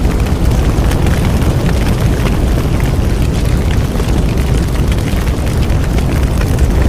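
Bonfire burning: a steady low rumble with wood crackling and popping throughout.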